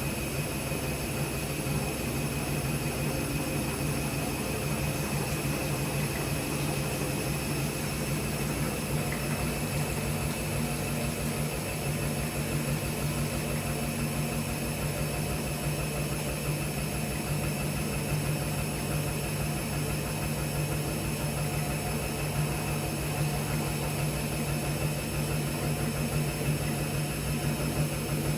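Gorenje PS 1008 BM washing machine running, a steady mechanical hum with a strong low drone and high steady whine that does not change.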